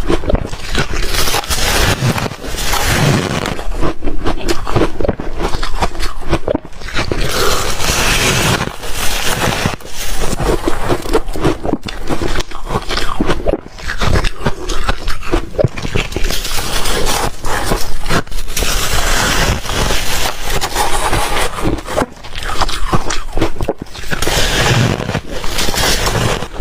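Close-up crunching and chewing of reshaved freezer ice: a dense run of crackling, crunching bites, broken by brief pauses about halfway through and again near the end.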